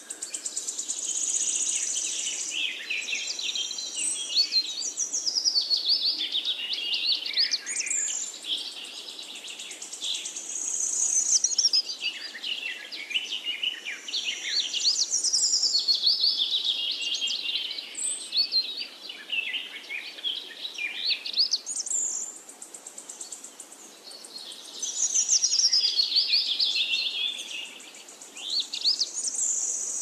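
Birdsong: dense high chirping and trilling, in long phrases that run down in pitch and repeat about every seven seconds.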